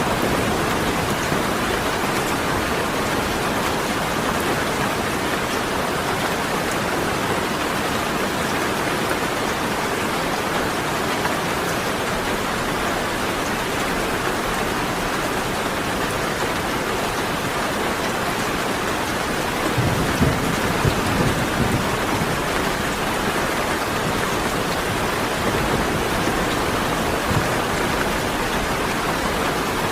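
Steady rain pouring down, with a short low rumble of thunder about two-thirds of the way through.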